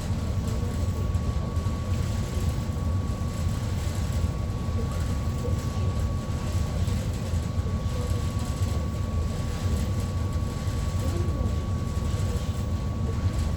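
Steady low rumble of a ferry's engines heard on board, with a faint constant whine above it.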